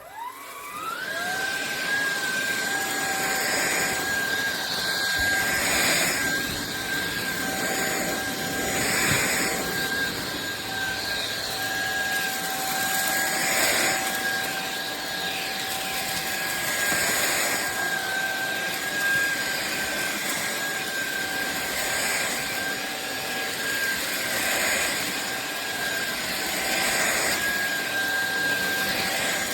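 SunSare X7A cordless stick vacuum switched on, its motor whine rising within about a second to a steady high pitch. It then runs on at that pitch, with the rush of air swelling and easing every couple of seconds.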